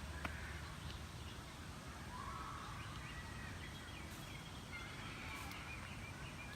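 Several birds calling: short rising and level notes, over a steady low outdoor rumble.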